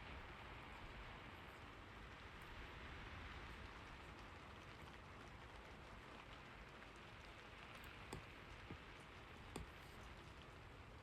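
Soft, steady rain, a faint even hiss of falling drops, with a few faint clicks near the end.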